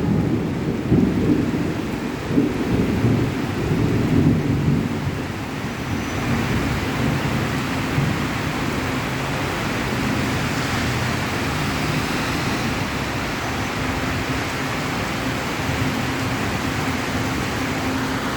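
Heavy rain pouring steadily, with an irregular low rumbling over the first five seconds or so that fades into the even sound of the downpour.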